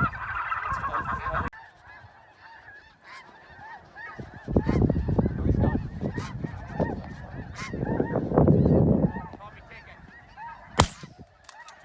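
A flock of geese honking, with many overlapping calls that swell louder twice. One shotgun shot rings out near the end.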